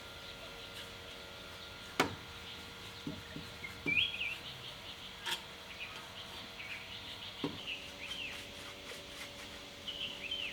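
Small birds chirping now and then, with a few sharp knocks, the loudest about two seconds in, over a faint steady hum.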